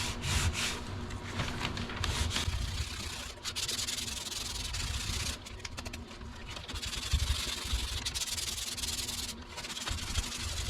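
Hand block sanding of primer on a car door panel with a flexible sanding block: quick back-and-forth strokes of sandpaper rasping over the primer, stopping briefly a few times.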